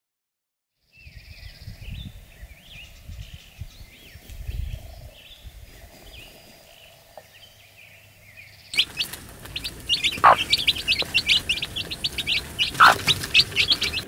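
Songbirds singing outdoors, starting about a second in, with low rumbles of wind on the microphone. About nine seconds in, a louder, denser stretch of rapid chirping begins, with two sharp falling calls.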